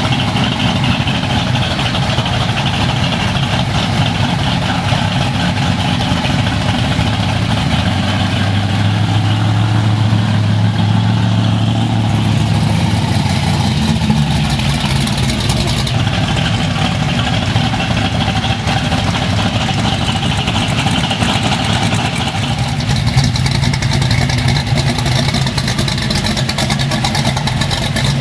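Car engine running for a long stretch, its pitch rising and strengthening for several seconds in the middle before settling back to a steady run.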